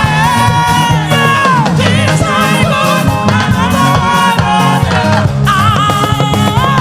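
Loud live gospel band music with a steady bass line and drums, carrying long held melody notes that bend at their ends.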